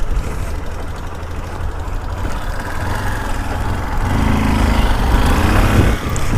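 Motorcycle engine running steadily, a little louder from about four seconds in.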